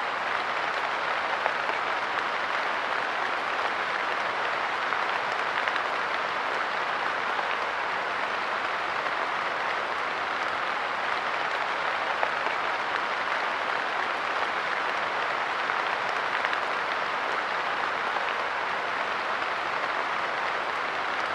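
Steady light rain pattering on a park bench and the ground around it, an even hiss with many small drop ticks.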